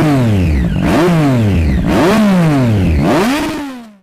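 Motorcycle engine revved four times, each rev climbing quickly and winding back down, then fading out near the end.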